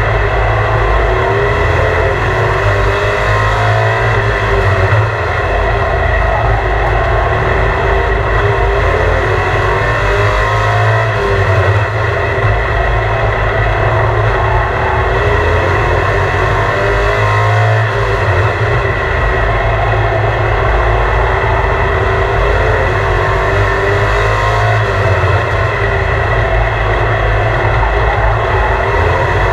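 Truck engine running loudly and steadily, revving up again and again every few seconds.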